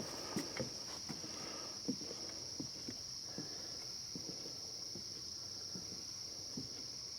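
Footsteps walking on a wooden boardwalk, irregular knocks about every half second, clearer near the start, over a steady high-pitched insect drone.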